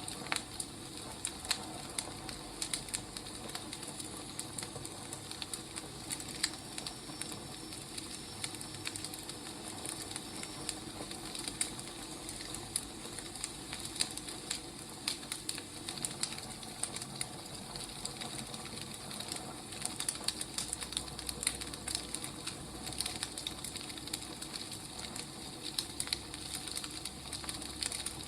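Firewood burning, with irregular sharp crackles and pops over a steady soft hiss.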